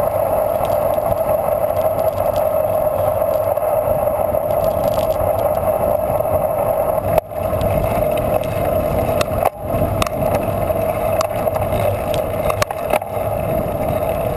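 Steady rushing noise of a bicycle ride heard on the rider's moving camera: wind and tyres. It is broken a few times by short clicks or dropouts.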